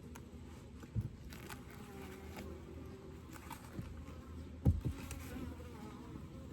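Honeybees buzzing around an open hive, a wavering hum of many bees. Two dull knocks break in, about a second in and a louder one near the five-second mark.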